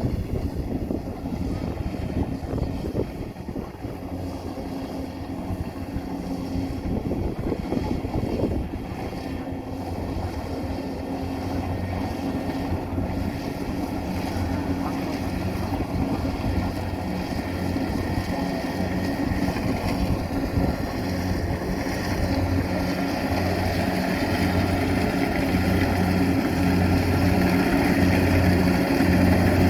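Rice combine harvester's engine running steadily, growing gradually louder, with wind on the microphone.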